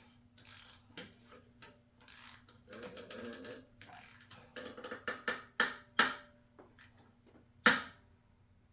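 Hand ratchet clicking in short, irregular runs while the oil filter housing cap is tightened, with a few sharper clacks, the loudest near the end.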